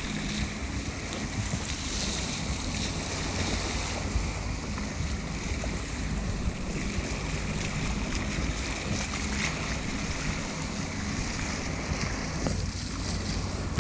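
Wind buffeting the microphone over the rush of sea water past a boat's hull, with a low steady hum underneath.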